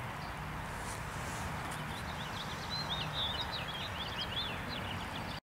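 Small songbirds chirping and twittering in quick short notes, busiest towards the middle and end, over a steady low outdoor rumble; the sound cuts off abruptly near the end.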